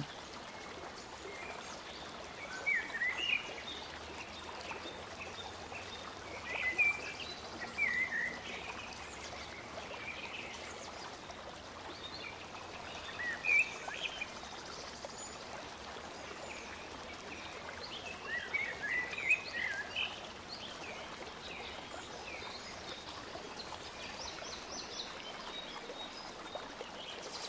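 Steady background hiss with scattered clusters of short, high chirps from small birds.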